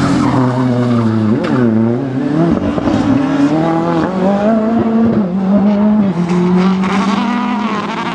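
Rally car engine running hard at high revs; its pitch dips sharply and climbs back about two seconds in, then holds high with small wavers.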